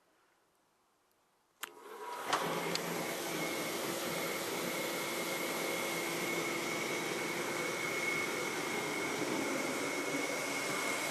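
An old forced-air bullet heater starting up: a click about a second and a half in, then its fan motor comes on and runs steadily, a rushing blow with a constant high whine.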